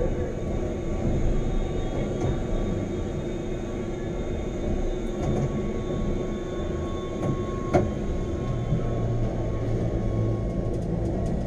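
Wengernalp rack railway train running: a steady rumble with a few steady whining tones over it, and a single sharp knock about eight seconds in.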